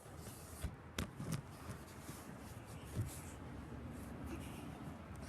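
Rustling, scraping handling noise close to the microphone, with a few sharp clicks, the loudest about a second in and another near three seconds.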